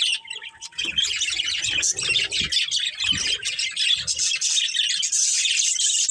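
Budgerigars chattering and chirping without a break, a dense high twitter, with a brief steady whistled note in the first second.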